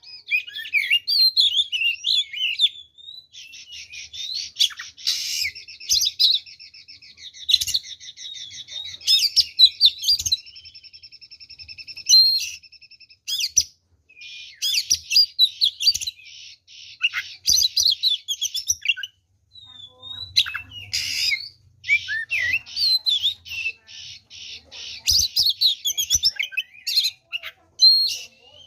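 Oriental magpie-robin (kacer) singing in full, aggressive song: a varied stream of whistles, sharp chips and fast runs of repeated notes, with a brief pause about two-thirds of the way through.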